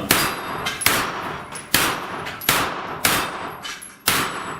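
Six gunshots fired at steel plate targets, spaced about a second apart, each followed by a short echo and faint ringing of struck steel.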